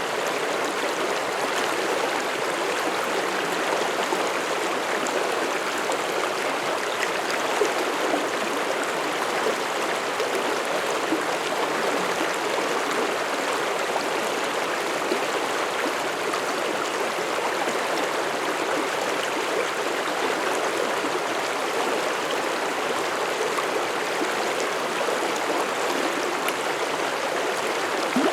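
Mountain stream running over rocks, a steady rushing and babbling of water.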